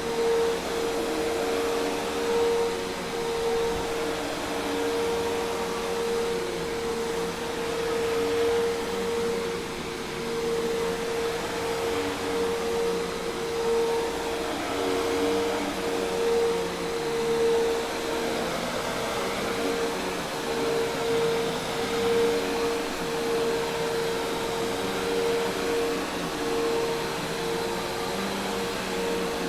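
Hoover Task Vac commercial vacuum cleaner running steadily: an even rush of air with a steady motor whine.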